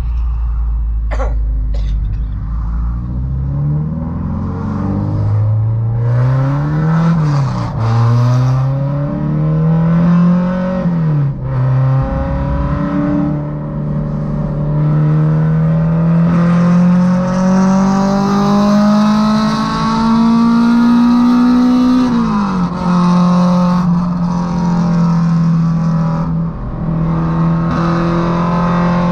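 Honda Civic EK4's naturally aspirated VTEC four-cylinder heard from inside the cabin, accelerating hard through the gears: the engine note climbs, drops at each of three upshifts, the last a long pull, then holds steady at highway speed.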